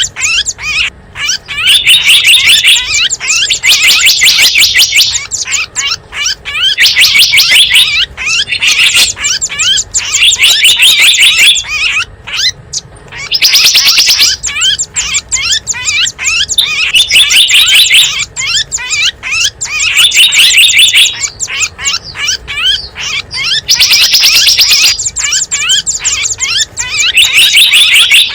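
Small wild birds chirping and twittering in a dense, rapid stream, from a recorded bird-lure call track. Louder, high, about-one-second bursts of twittering keep breaking out every one to three seconds over the steady chatter.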